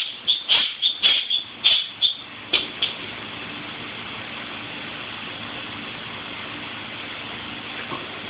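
A quick run of sharp rattling clatters as the dog plays, bunched in the first three seconds, then a steady background hiss with a faint low hum.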